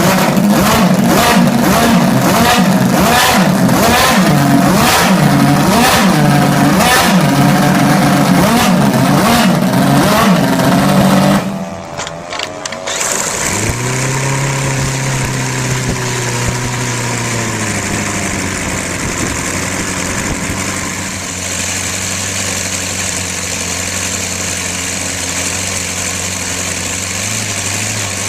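Small model internal-combustion engines running. For the first eleven seconds or so, one engine is revved repeatedly, its pitch rising and falling about once a second. After a sudden break, another engine runs at a steady idle.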